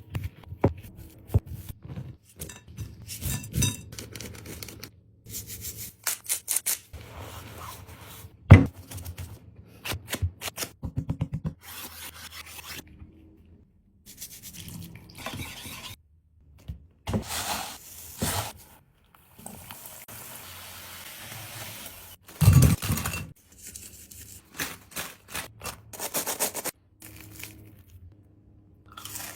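Kitchen food-preparation sounds in short cut-together clips: sharp knocks, rubbing and scraping of utensils against dishes, and a steady hiss lasting a couple of seconds past the middle.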